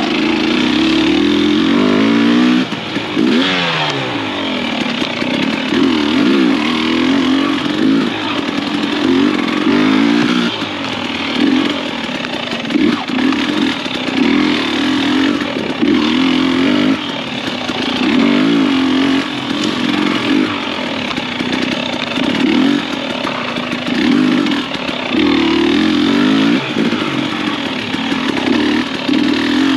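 Husqvarna TX300i two-stroke single-cylinder dirt bike engine being ridden in short bursts of throttle, its pitch rising and falling every second or two, with a clear drop in revs about three seconds in. The stop-start throttle is that of slow, tight, technical singletrack riding.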